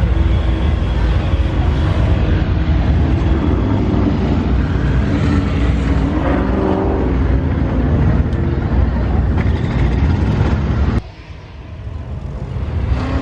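Car engines running, a steady low rumble. It drops away suddenly about eleven seconds in and builds back up near the end.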